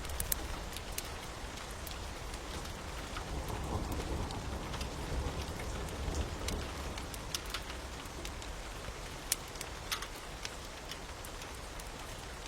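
Steady rain with scattered sharp crackles and pops from a wood fire. A low rumble swells and fades in the middle.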